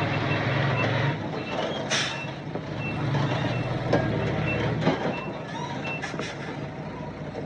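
Reversing alarm of a heavy construction vehicle beeping in quick, evenly spaced single beeps over a diesel engine running. A few sharp clanks and a short hiss come through partway through.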